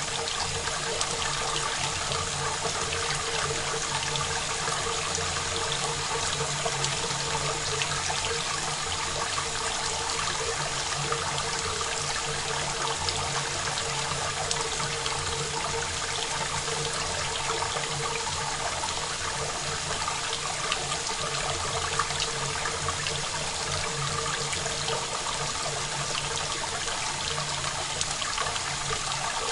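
Rain falling steadily, a dense patter of drops with no reverb.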